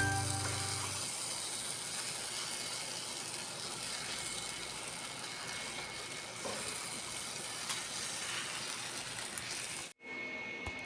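Faint, steady sizzling hiss of food frying in a pan.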